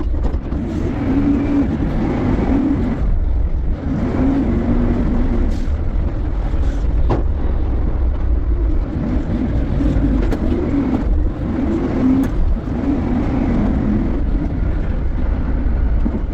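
Heavy diesel engine of an empty container handler running under load, its note rising and falling as the revs change, with a few short clicks and knocks.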